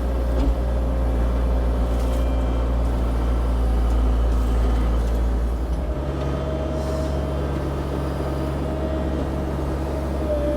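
CAT 304 E2 mini excavator's diesel engine running steadily while the machine pushes a debris pile with its blade. Its note shifts slightly about six seconds in.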